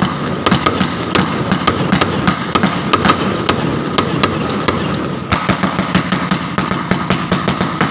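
A long string of firecrackers going off, a dense, irregular run of sharp cracks.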